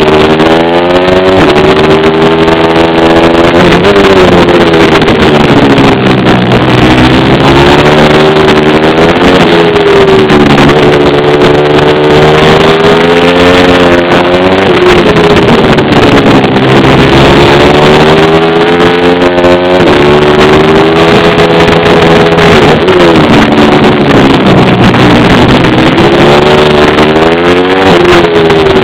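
Pit bike's small single-cylinder engine run hard, loud throughout, its pitch climbing and dropping again every few seconds as it accelerates and backs off through the corners.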